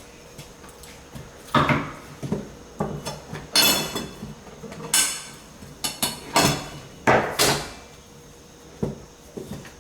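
A hammer striking hardwood flooring during installation: about ten sharp, irregular blows, each with a brief high ringing tail.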